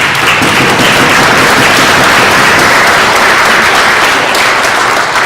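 Audience applauding in a hall, steady dense clapping that begins to die away near the end.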